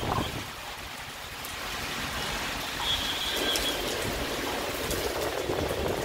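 Heavy rain pouring steadily onto a city road, with traffic going by on the wet tarmac; the sound swells in the second half as a vehicle passes.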